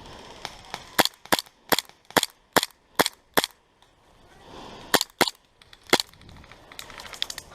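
Gas-powered airsoft gun firing single shots: seven sharp cracks at an even pace, about two and a half a second, then a pause and three more.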